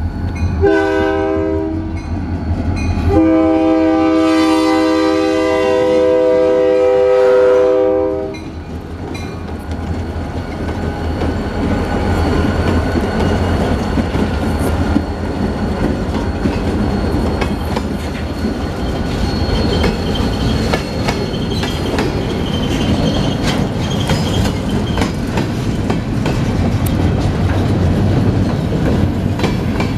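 A Portland & Western Railroad diesel locomotive's air horn sounds a short blast, then one long blast of about five seconds as the train reaches the grade crossing. The locomotive then runs past, and the freight cars roll by with their wheels clicking over the rail joints.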